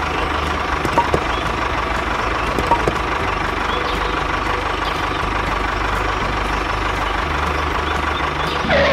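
Mini tractor engine idling steadily, with a couple of light clicks.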